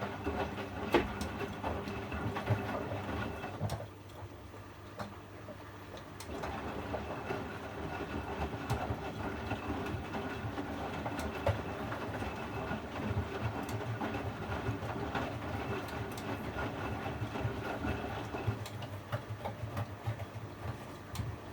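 Privileg 804 washing machine running, its drum and motor giving a steady mechanical rumble with light clicks and knocks. The sound drops away for about two seconds, four seconds in, then picks up again.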